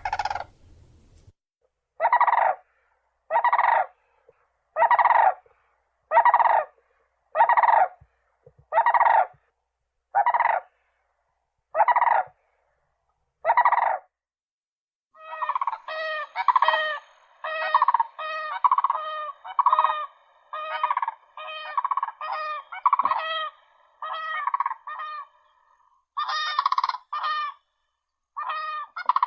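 Common cranes calling with loud, rolling trumpet calls. First comes an evenly spaced series of single calls, about one every second and a half. About halfway through they give way to a faster run of overlapping calls, and a few more calls follow near the end.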